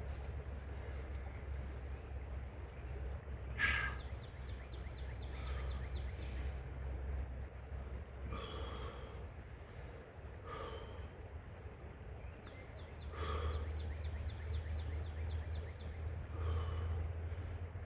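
A man's short, heavy breaths, about seven in all and a second or two apart, as he braces to lift a heavy stone, over a steady low rumble.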